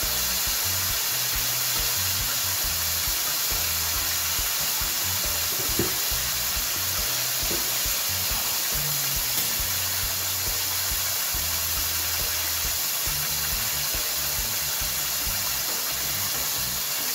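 Floured chicken pieces frying in a pan of hot grease, a steady sizzle.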